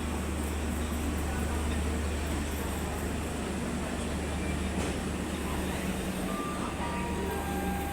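Steady low rumble of a moving train, with a few faint short beeping tones near the end.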